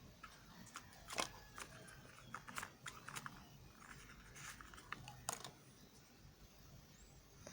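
Knife cutting soft white soap: faint, scattered crisp clicks and crackles, a few sharper snaps among them.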